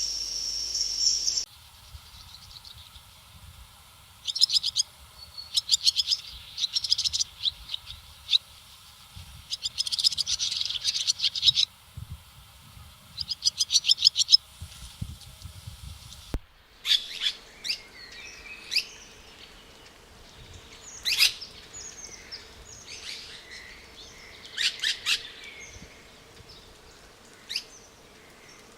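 Rainforest birds calling. A loud high insect buzz cuts off about a second and a half in. Then come repeated bursts of rapid chirping trills, each a second or so long. About halfway through the sound changes abruptly to scattered short chirps and whistles over a faint steady hum.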